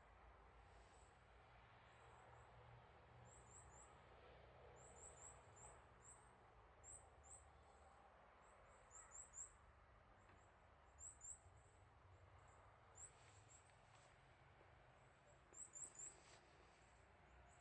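Small bird giving very high, thin chirps in quick clusters of two to four, repeated irregularly over a faint steady background hum.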